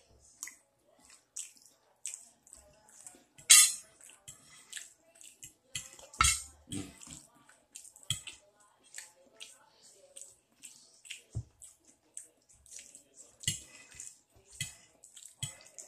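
Close-miked mouth sounds of eating: wet chewing and lip-smacking on rice and gravy, irregular and quick, with a couple of louder ones about three and a half and six seconds in.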